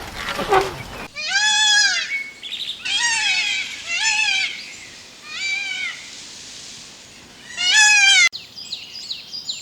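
An animal calling five times, each call a high cry under a second long that rises and falls in pitch, ending abruptly near the end.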